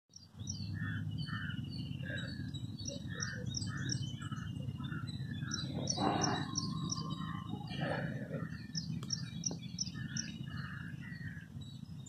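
Wild birds chirping in short, quickly repeated notes, several calling at once, over a steady low background rumble.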